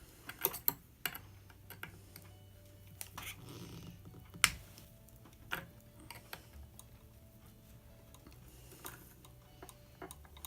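Scattered light clicks and taps of a vintage cast-iron Singer sewing machine being handled, with one sharper knock about four and a half seconds in.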